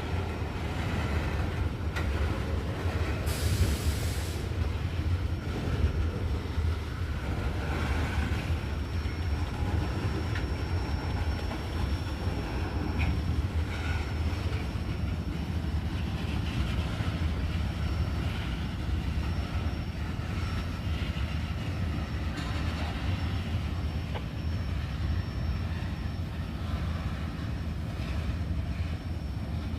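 Freight train of ethanol tank cars rolling past, its wheels making a steady low rumble on the rails with a light clickety-clack. There is a brief hiss about three seconds in, and a faint high steady wheel squeal from about ten seconds in.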